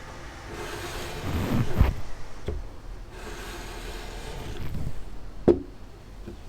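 Fiat 500 carburetor base being rubbed over sandpaper on a flat surface to flatten its warped mounting face: two long scraping strokes, then a sharp knock about five and a half seconds in.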